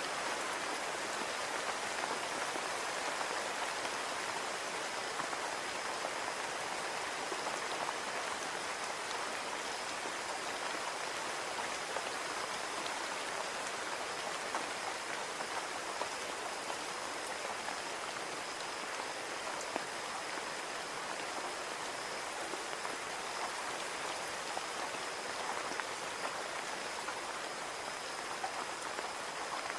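Steady rain pattering on a window, a dense even hiss of many small drop ticks, with a faint high steady whine underneath.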